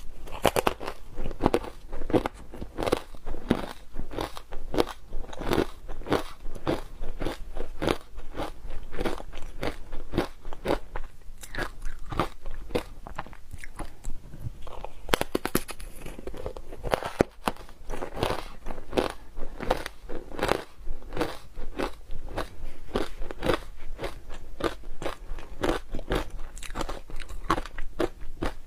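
Close-up crunching of ice being bitten and chewed: a steady run of sharp crunches, a few a second, without pause.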